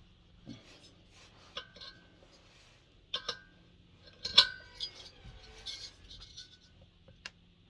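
Metal spanners clinking against metal as a bolt on a diesel heater is worked at: a string of sharp clinks with brief ringing, the loudest about four and a half seconds in.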